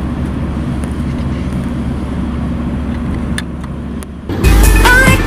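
Steady low vehicle rumble. Loud pop music with singing cuts in near the end.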